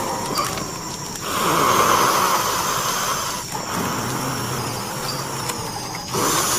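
A person breathing heavily in long, rasping breaths of about two seconds each, with short pauses between them.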